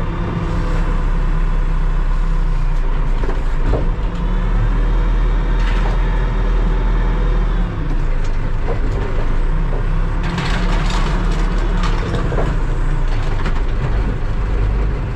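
Diesel engine of a Terex TLB-815 backhoe loader running steadily, heard from the operator's cab, with a stretch of rattling and knocks about ten seconds in.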